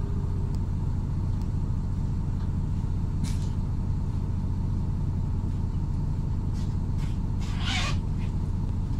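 MAZ-103.486 city bus running steadily under way, its engine drone and road rumble heard from inside the passenger cabin. Two short bursts of hiss cut in, one about a third of the way in and a louder one near the end.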